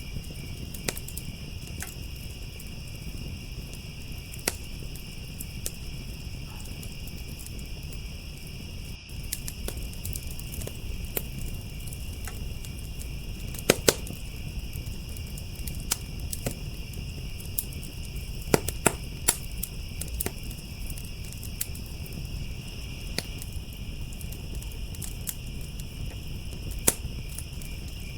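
Wood fire crackling with sharp, irregular pops (a quick pair of louder ones about halfway through) and a low rumble of burning, over a steady high-pitched trilling of crickets.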